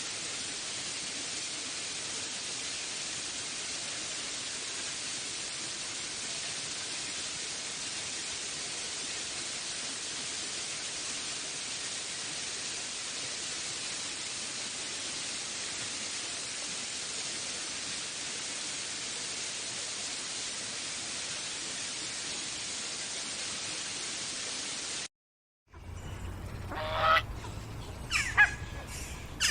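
Steady, even hiss of a nature-sound ambience that cuts off sharply after about 25 seconds. After a brief silence, a new scene begins with several loud, harsh bird calls.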